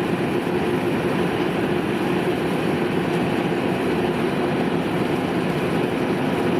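Kubota DC-93 rice combine harvester's diesel engine and threshing machinery running with a steady drone.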